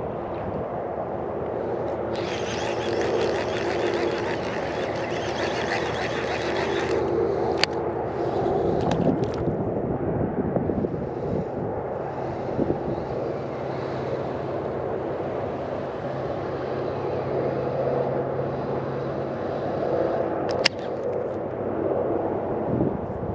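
A motor running steadily, with a hiss that comes in about two seconds in and fades a few seconds later, and two sharp clicks, one near the middle and one near the end.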